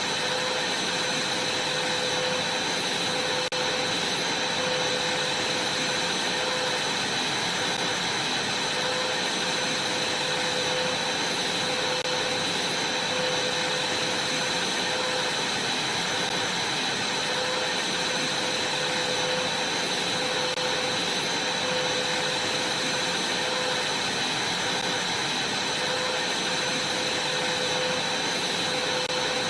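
Vacuum cleaner running steadily: a constant rushing noise with a steady high whine and a fainter lower hum.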